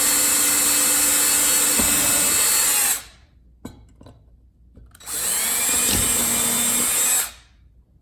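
Cordless drill pre-drilling pilot holes through a floor box flange into the flooring, so the floor does not crack. It runs steadily for about three seconds, stops, and runs again for about two seconds from about five seconds in.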